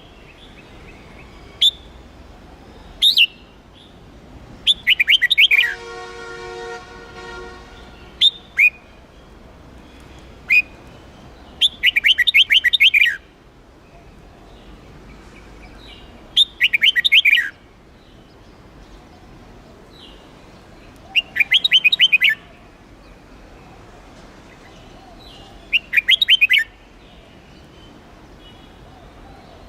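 Red-whiskered bulbul singing: short, loud, warbling whistled phrases of about a second, repeated every four to five seconds, with single short notes in between. A brief steady hum with several overtones sounds about six seconds in.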